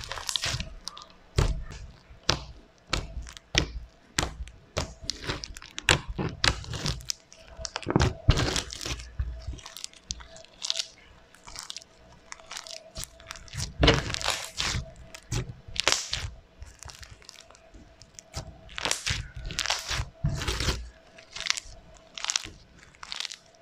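Foam-bead slime being squeezed and pressed by hand, the beads crunching and crackling in irregular pops, with a few louder crunches.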